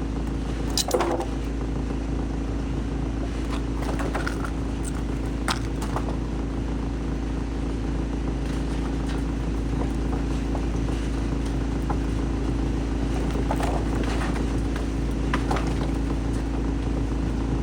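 Heavy-duty wood shredder running steadily with a continuous machine drone, broken by a few short sharp cracks.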